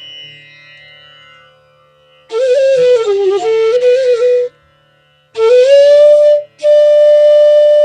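Bansuri, the North Indian bamboo flute, playing slow melodic phrases over a faint drone. The phrases bend and waver in pitch, then rise into a long held note near the end.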